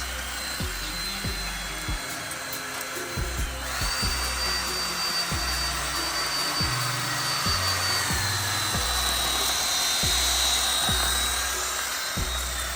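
Electric drill spinning fine 1500-grit sandpaper against a plastic headlight lens to buff off oxidation haze: a high motor whine and sanding hiss that start about four seconds in, dip slightly in pitch past the middle and ease off near the end. Background music with a steady beat and bass plays throughout.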